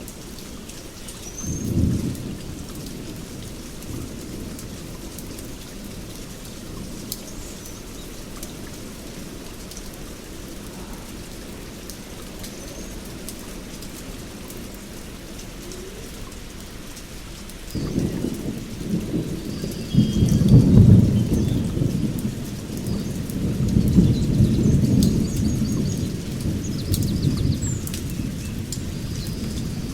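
Steady heavy rain with rolling thunder: a short rumble about two seconds in, then a long rumble building from about two-thirds of the way through, loudest soon after, and slowly dying away.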